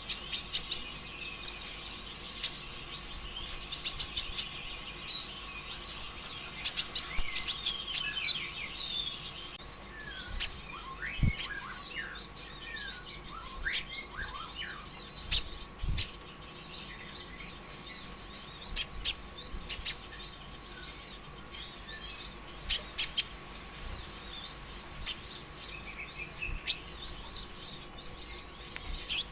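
A kolibri ninja (konin) sunbird singing in rapid, high-pitched chirps and short trills. The bursts come densely for roughly the first nine seconds, then as sparser sharp calls. A faint steady hum lies underneath.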